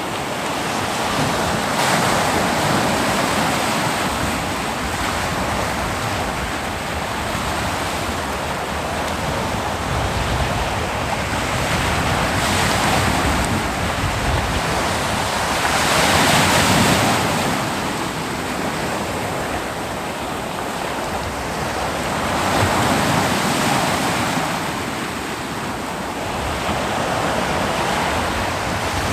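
Ocean waves breaking on a beach in continuous surf, with swells of louder wash every few seconds, the strongest about halfway through.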